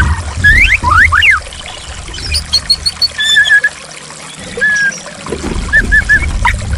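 Running water pouring and splashing, with a white-rumped shama (murai batu) whistling over it: several quick rising whistles, then a run of short repeated notes and a few brief chirps near the end. The water noise drops away for a moment midway, then returns.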